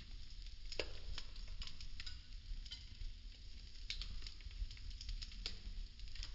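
Popsicle-stick house burning: thin wooden craft sticks crackling in the flames, with many irregular sharp pops, a few of them louder, over a soft hiss and a low rumble.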